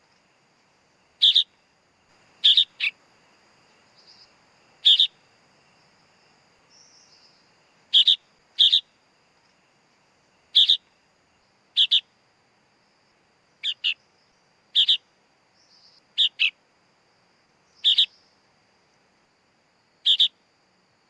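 Sooty-headed bulbul (kutilang) chick calling: short, sharp high chirps, singly or in quick pairs, repeated every second or two.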